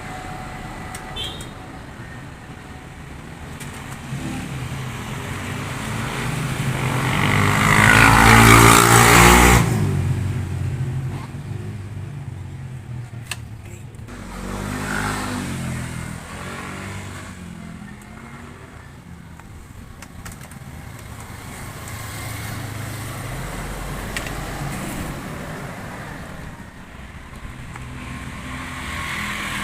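Motor vehicle engines rising and falling in pitch and loudness, loudest about eight to nine seconds in, with a smaller swell around fifteen seconds.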